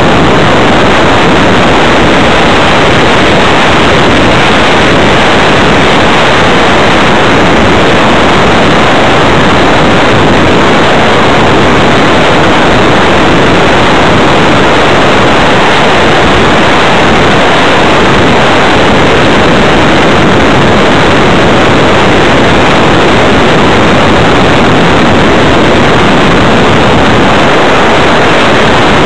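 Airflow rushing over the microphone of a camera mounted on an RC model plane in flight: a loud, steady rush of wind noise with no motor tone heard.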